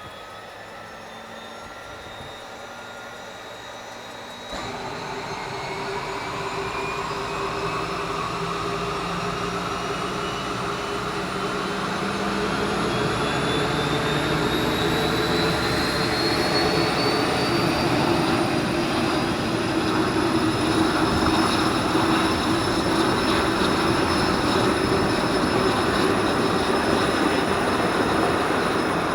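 de Havilland Turbo Beaver floatplane's turboprop engine powering up for takeoff from the water: a rising whine that grows steadily louder, stepping up in level about four and a half seconds in.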